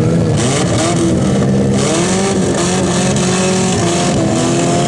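Several demolition derby car engines running and revving together, their pitches rising and falling over one another.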